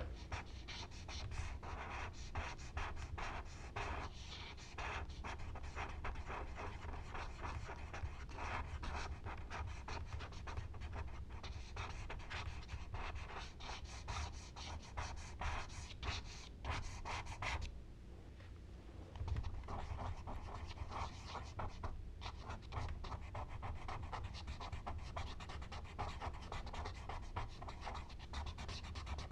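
Charcoal and blending tools rubbing and scratching on smooth Bristol paper in quick back-and-forth strokes, with a short pause a little past halfway.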